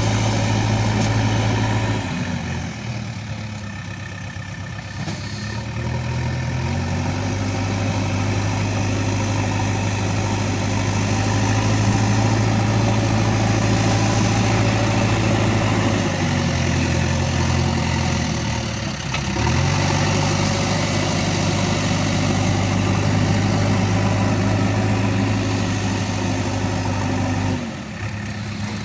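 Toy JCB backhoe running with a steady engine-like hum that sags and climbs back in pitch several times as it works.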